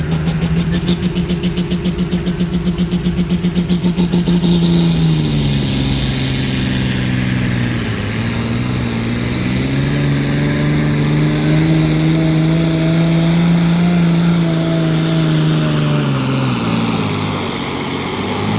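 Pulling tractor's engine running hard at high revs under load, pulsing rapidly at first. Its pitch sags about eight seconds in, climbs back and holds, then falls away near the end.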